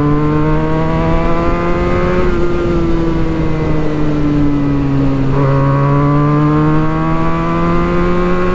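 Benelli 302S's 300cc parallel-twin engine running through a Yoshimura exhaust while riding. The revs climb for about two seconds, sink for about three, then climb again.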